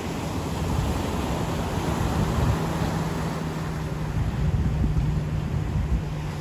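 Ocean surf washing on the beach, with wind buffeting the microphone. A steady low hum of a distant motor comes in about two and a half seconds in and holds under the surf.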